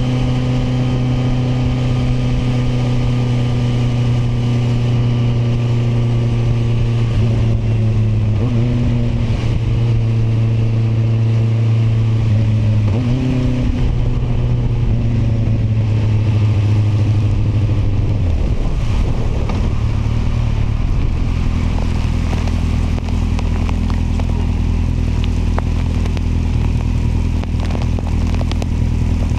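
Kawasaki motorcycle engine running steadily under way, over road and wind noise. The engine note wavers briefly about 8 and 13 seconds in, then drops about 18 seconds in and settles to a lower steady pitch as the engine slows.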